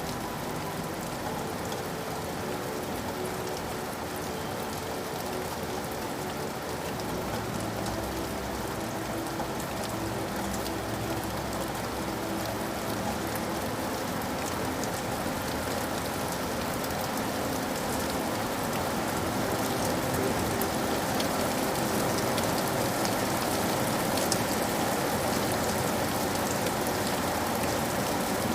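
Steady rain falling and pattering on surfaces, with many fine drop ticks, growing slightly heavier about two-thirds of the way through.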